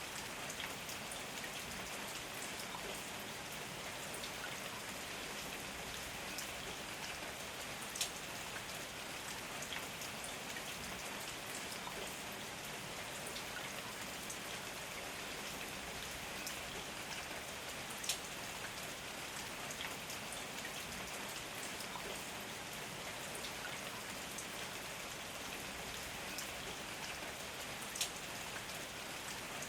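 Heavy rain falling steadily, a dense even patter, with three sharper ticks standing out about ten seconds apart.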